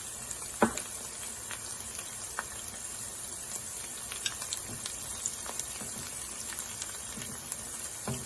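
Onions, ginger and garlic sizzling in hot oil in a pan, with steady crackling and small pops. A single sharp knock about half a second in.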